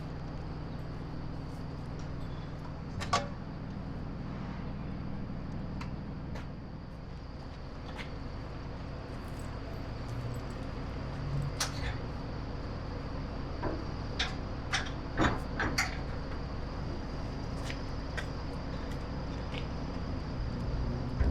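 Scattered light clicks and knocks, most of them bunched in the second half, over a steady low hum.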